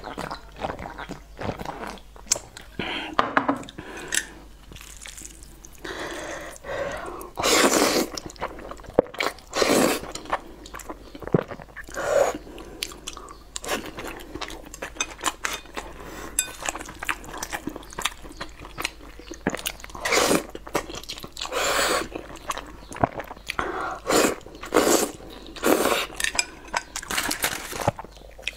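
Close-miked eating sounds: a person chewing and biting food, with crunching, in irregular bursts throughout.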